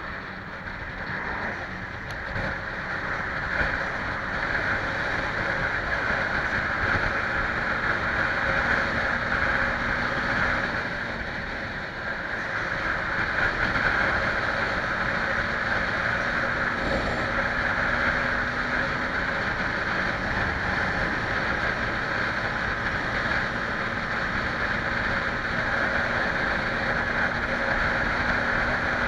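Steady road noise from riding a motorcycle: wind rushing over the helmet microphone, with the engine running underneath.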